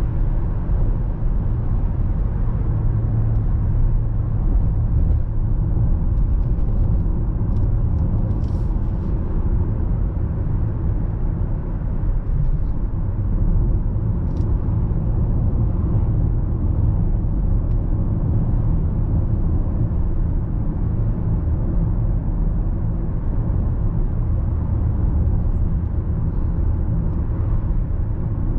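Stock Range Rover Sport SVR's supercharged 5.0-litre V8 and tyre noise at a steady cruise: a low, even rumble with no revving.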